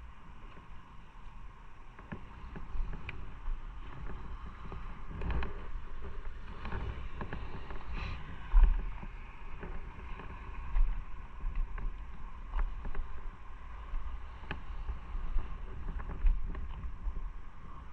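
A motorcycle on the move: wind buffeting the microphone in uneven gusts of low rumble over a steady engine and road hum, with scattered small ticks and rattles.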